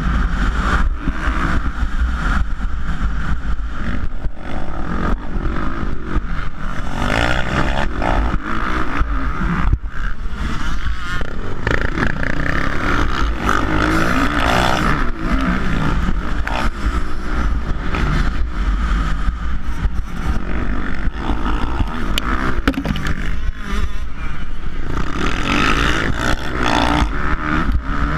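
450-class motocross bikes running and revving up and down during a race, with frequent short knocks and rattles.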